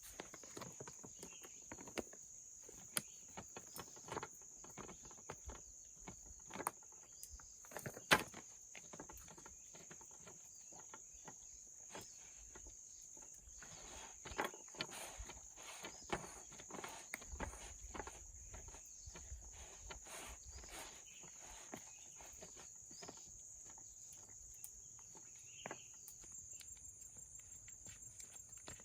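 Irregular footsteps with scattered small knocks and rustles, one sharper knock about eight seconds in, over a steady high-pitched insect drone. Near the end a quick, regular ticking starts.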